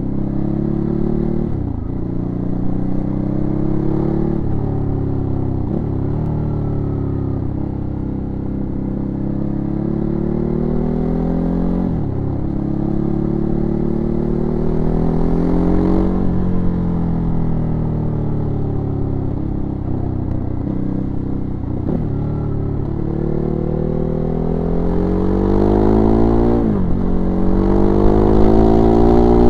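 Ducati Hypermotard 939's 937 cc L-twin engine heard from onboard while riding, its note climbing in pitch under acceleration and dropping sharply every few seconds. It gets louder near the end, with wind rumble underneath.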